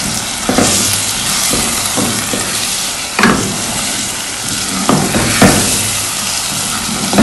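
Chicken, tomatoes and spices sizzling in oil in a pot while a spatula stirs them, with several knocks as the pot, holding little curry, shifts and rattles on the gas stove grate; the loudest knock comes about three seconds in.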